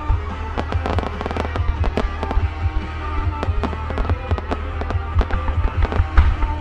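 Fireworks bursting in rapid succession: a dense run of booms and sharp reports, several a second, with music from the show's soundtrack playing underneath.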